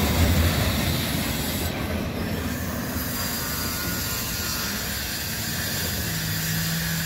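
Double-stack intermodal well cars rolling on the rails as the end of a freight train passes and moves away, the rumble easing somewhat after the first second or two.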